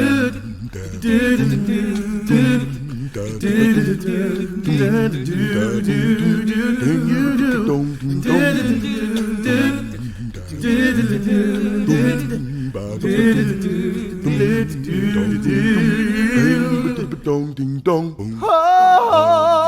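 A cappella vocal group singing a wordless backing of bass and harmony parts, with no instruments. Near the end a solo voice comes in above them with a held, wavering note.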